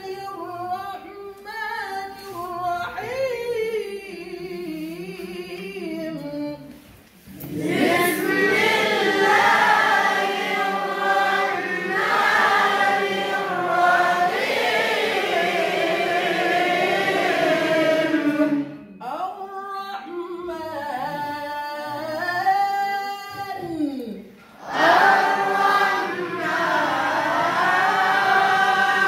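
Voices chanting a melodic devotional piece in unison without instruments, in the style of Quranic maqam recitation. The phrases are long and wavering, with short breaths near 7 s and 24 s, and the singing is louder after the first pause.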